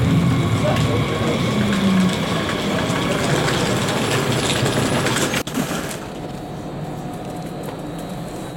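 Train running, a steady noisy rumble that breaks off sharply about five and a half seconds in, leaving a quieter steady background noise.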